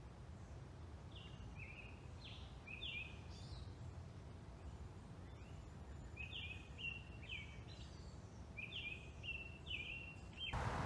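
A songbird singing three short phrases of quick, downward-slurred chirps, about a second in, around six seconds in and near the end, over a faint steady low rumble.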